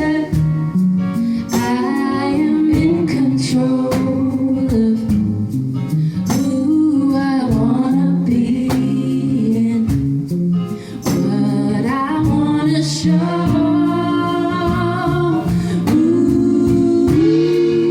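A woman singing a pop song live, held and wordless sung phrases over guitar accompaniment.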